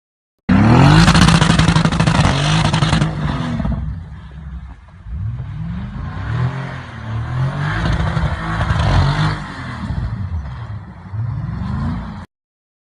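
A vehicle engine revving up and down several times in a row, with a loud rushing noise over the first few seconds. It starts abruptly and cuts off suddenly near the end.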